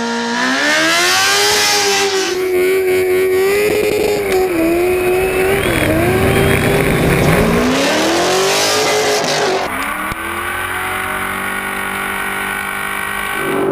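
A drift vehicle's engine running hard at high revs, its pitch wavering up and down as the throttle is worked, with two loud bursts of hissing noise over it.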